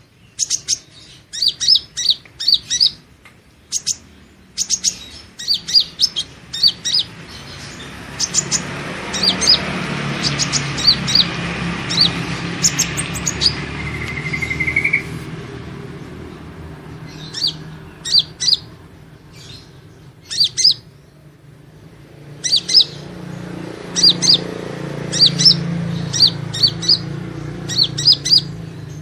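Kolibri ninja sunbird calling: rapid clusters of sharp, high chirps with brief pauses, and a short rising trill midway. A steady low hum and a rushing background noise swell in the middle.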